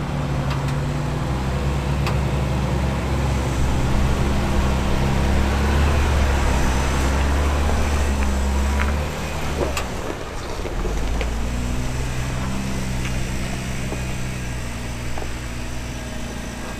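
Off-road Jeep engine running steadily at low revs on a rock-crawling trail; its note drops and changes about halfway through, with a few sharp clicks around the same time.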